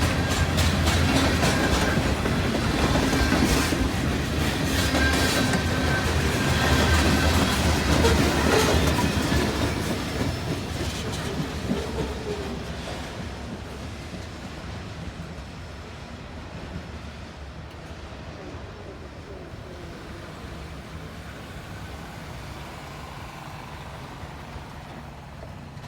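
Freight cars rolling past, their wheels clacking over rail joints, with a faint wheel squeal. The sound fades away after about ten seconds as the end of the train goes by.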